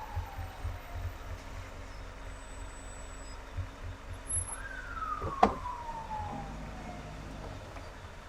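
An emergency vehicle's siren wails twice. Each sweep jumps up briefly, then falls slowly in pitch over a couple of seconds. Under it runs the low rumble of car road noise, with one sharp click about five seconds in.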